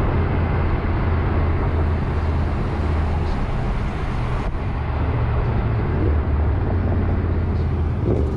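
Steady low rumble of car engines and tyres as two cars cruise slowly side by side, among them a tuned twin-turbo V8 Audi S6; the engine note holds steady without revving.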